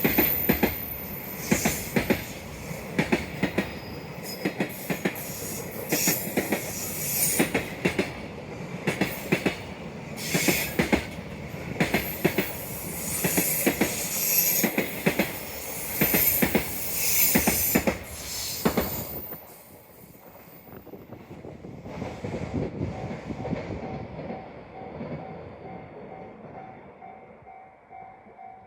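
Container wagons of a freight train rolling past over rail joints, the wheels clacking in regular clusters of clicks. The last wagon goes by about 19 seconds in and the rumble then fades away.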